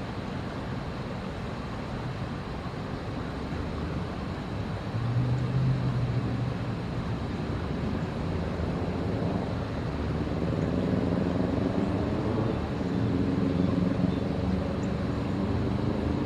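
Road traffic: a steady rumble. About five seconds in a vehicle engine grows louder, and later its engine note climbs in pitch as it pulls away.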